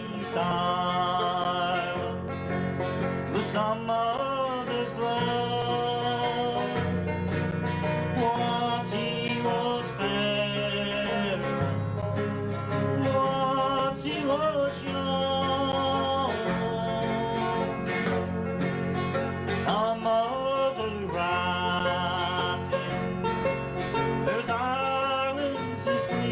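Country gospel band playing an instrumental break between verses, a sliding lead melody over a steady, changing bass line.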